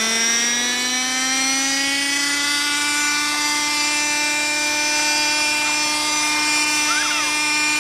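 Small model-aircraft engine running at high revs with a high, buzzing drone, its pitch rising over the first couple of seconds and then holding steady.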